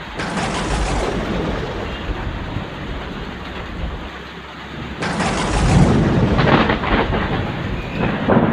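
Thunderstorm overhead: rain hissing steadily, with a sudden clap of thunder just after the start and a louder one about five seconds in that rumbles on.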